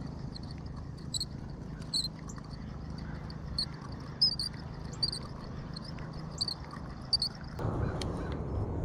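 Crickets chirping, short high chirps repeating about once or twice a second over a steady low hum, with a rush of noise coming in near the end.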